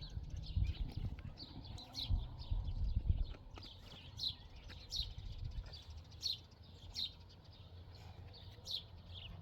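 A bird chirping over and over: short, high notes that fall in pitch, one every second or so. A low rumble underlies the first few seconds.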